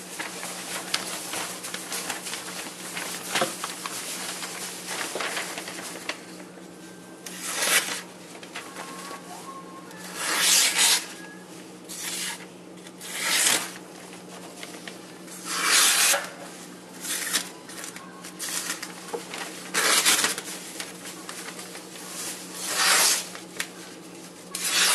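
Steel knife blade rubbed in finishing strokes across an abrasive surface to clean up the edge: first a few seconds of continuous back-and-forth scraping, then single long scraping strokes every two to three seconds.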